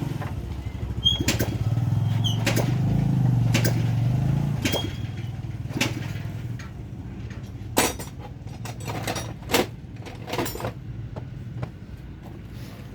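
A small engine running low and steady, fading away about six seconds in, with scattered sharp metallic clinks and knocks of tools on metal parts throughout.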